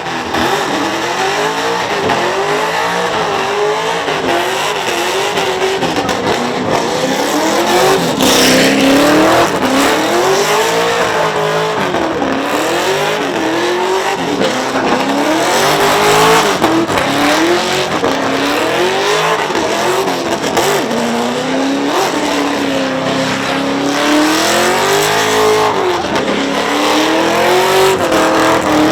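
V8 engine in an import car revving up and down over and over during a burnout, its pitch rising and falling every couple of seconds, with tyres squealing under the noise.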